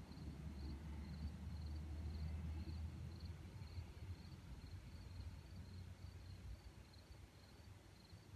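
An electric regional train pulling away, its low rumble fading as it recedes. A faint high chirp repeats about twice a second throughout.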